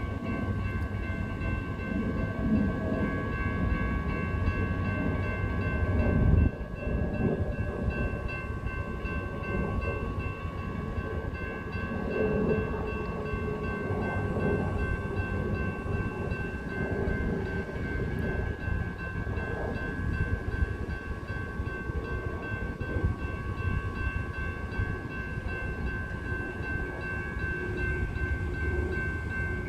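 Freight train of tank cars standing or creeping at a grade crossing, giving a steady low rumble with several high-pitched tones held throughout. A single loud clang about six seconds in is typical of the cars banging together at the couplers.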